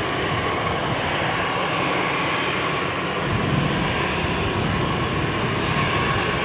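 Airbus A320 jet engines heard as a steady rushing noise, with a faint steady tone in it and a slight swell in the low end about halfway through.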